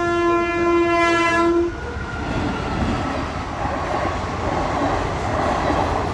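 Train horn sounding one steady blast of nearly two seconds, then the train running past the level crossing with a steady rumble.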